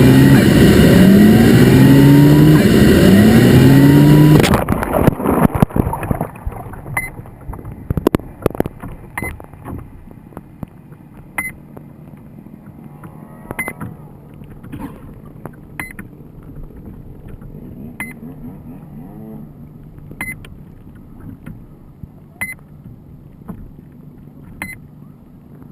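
FPV quadcopter motors running loud and revving up in three rising surges, then cutting off abruptly about four and a half seconds in with a clatter of knocks. A short, high beep follows about every two seconds over quieter background noise.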